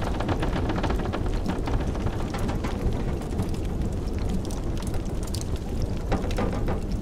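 Wood fire crackling in a fireplace, with many small irregular pops, over the steady low rumble of blizzard wind.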